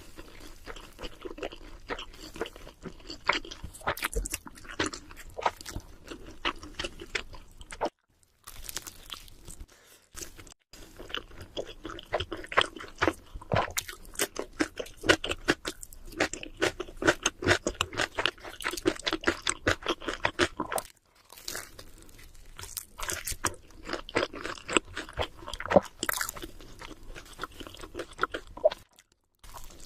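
Close-miked chewing and biting of cheese seafood pizza: rapid wet clicks and crunches in stretches, broken by a few brief pauses.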